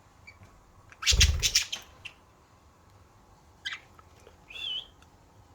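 Budgie wings flapping in a short burst about a second in, followed later by two brief budgie chirps, the second a short warbling whistle.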